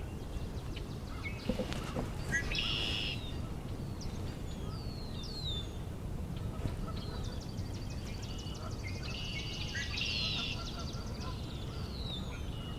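Songbirds singing in a spring marsh. Red-winged blackbirds give buzzy trilled songs about two seconds in and again near nine seconds. Short down-slurred whistles come from other birds, and a fast high trill starts about seven seconds in and runs almost to the end, all over a steady low background hum.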